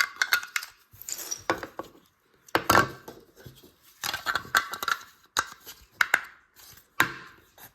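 Plastic LEGO bricks clicking and clattering as they are handled and pressed together, in irregular sharp clicks.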